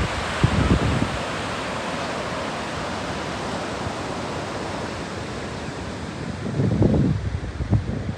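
Steady wash of ocean surf on a beach, with wind buffeting the microphone in low rumbling gusts near the end.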